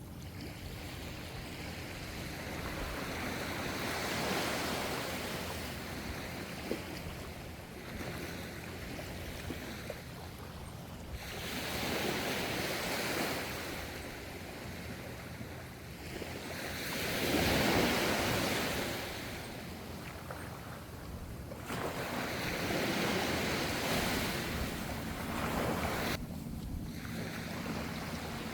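Gentle ocean waves washing in, a surge of surf every few seconds with the largest one about two-thirds of the way through.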